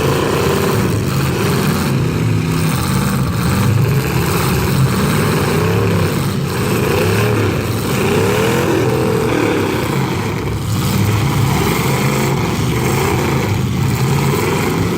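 Several car and pickup truck engines revving up and down at once in a demolition derby heat, their pitches rising and falling over each other.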